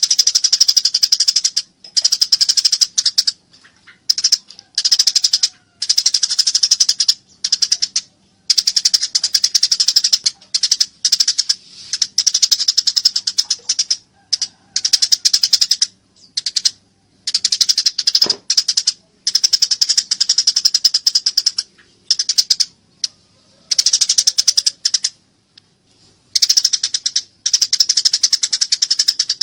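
Eurasian tree sparrow (burung gereja) giving fast, excited chattering chirps in bursts of one to three seconds with short breaks between them. This is the agitated 'fighting' call used as a tutor recording for songbirds.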